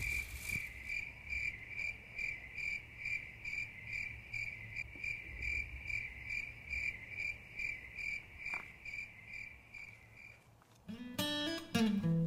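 A cricket chirping steadily, a little under three short high chirps a second. Near the end the chirping stops and acoustic guitar strumming begins.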